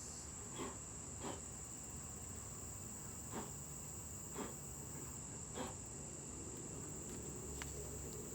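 A steady, high insect trill like crickets, with five brief scuffing handling noises in the first half or so.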